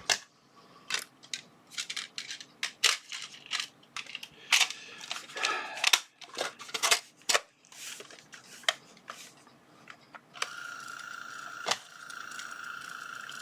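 Plastic clicks and knocks of a tape cartridge being fitted into a Brother P-Touch D210 label maker and the machine being handled. About ten seconds in, the label maker's feed motor starts a steady whine that runs for about three seconds as it prints a test label.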